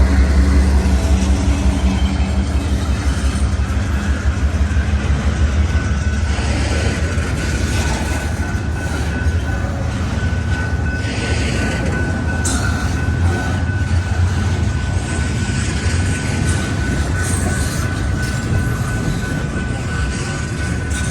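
Intermodal freight train's cars rolling past at close range, a loud steady rumble of wheels on rail. A thin, steady wheel squeal comes in about a quarter of the way through and holds on.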